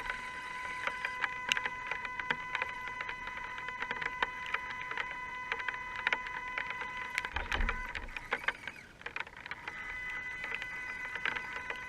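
Electric motor and speed controller of an Axial SCX10 RC rock crawler whining steadily at a few fixed pitches, with scattered clicks and ticks. The whine fades out briefly about nine seconds in, then comes back.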